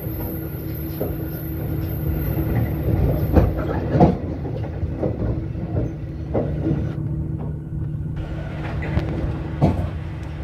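Diesel-hauled train running along the track, heard from an open walkway on the train: a steady low engine drone, with the wheels knocking sharply over rail joints every few seconds.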